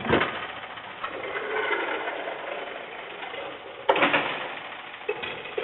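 Garbage truck machinery running with a rattling mechanical noise, with a sharp clunk at the start and another about four seconds in.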